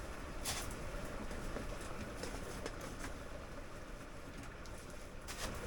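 A few light knocks and handling noises from the tent wood stove being set up, over a steady background hiss.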